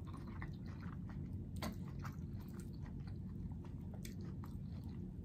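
Close-miked chewing of boiled corn on the cob: faint, irregular wet clicks and small crunches over a steady low hum.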